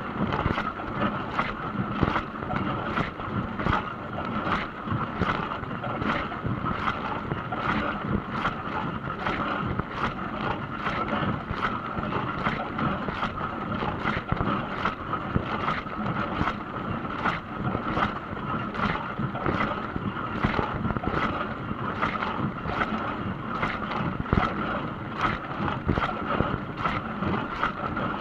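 Dishwasher running its wash cycle: a steady rush of spraying water with a regular swish about twice a second.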